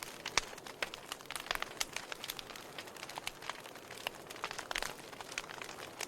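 Fire crackling in a fireplace: many irregular sharp snaps and pops over a soft steady hiss.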